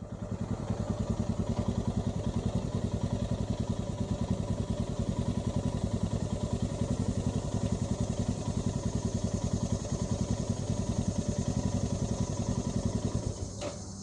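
Royal Enfield Himalayan's single-cylinder engine running steadily with an even, rapid thump. The sound drops away sharply with a click just before the end.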